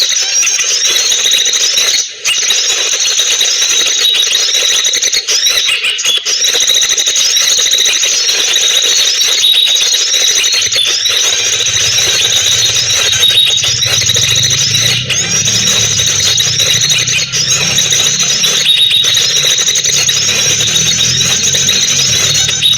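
Recorded sunbird song played loudly through a small speaker as a lure: fast, high chirping phrases repeating over and over without a break. A low hum joins in about eleven seconds in.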